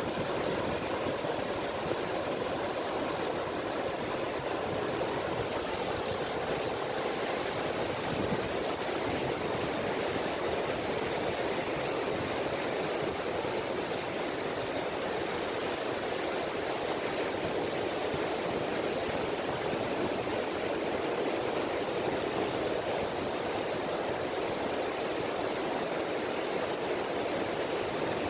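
Small sea waves (ripples) washing continuously on a beach, a steady, even rush of water without distinct breaking surges.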